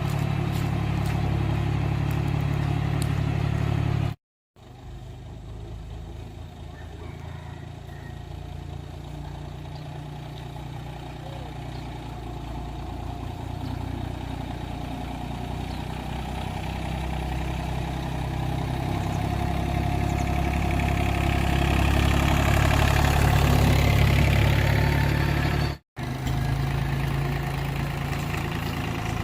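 An engine running steadily, heard in pieces split by two abrupt cuts. In the long middle stretch it slowly grows louder.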